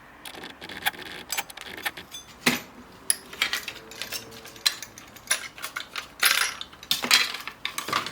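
Irregular clinking and rattling of small metal objects being handled, a string of sharp knocks with the loudest about two and a half, six and seven seconds in.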